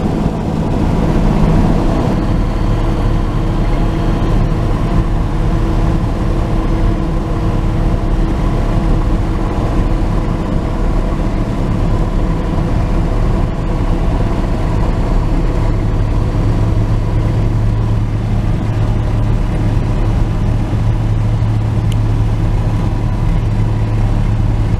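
A 1949 Chevrolet truck cruising at steady highway speed, heard from inside the cab: a continuous engine drone mixed with road and wind noise. A low hum grows stronger in the second half.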